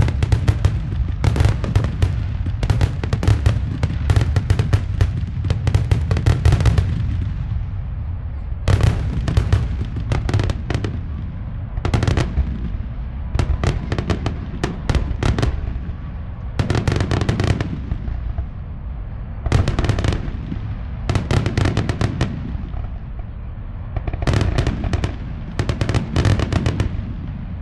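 Fireworks grand finale: rapid volleys of shell bursts and crackling reports over a continuous low rumble, coming in waves with brief lulls between them.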